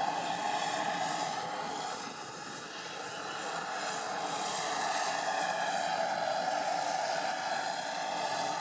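Aircraft engine noise, a steady rushing that dips briefly about two seconds in and then swells again.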